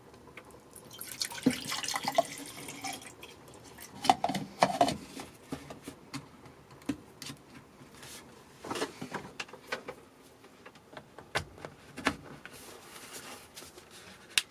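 Liquid being poured and dripping, with a noisy stretch of pouring early on and sharp clicks and knocks of handling a few times after.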